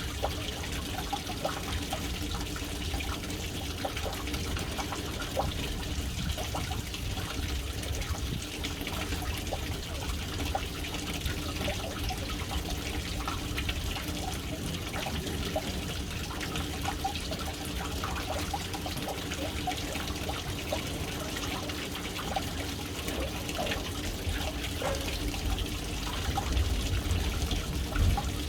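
Water falling in a steady stream into a household water tank filling through its float valve: continuous splashing and trickling over a low rumble, a little louder near the end.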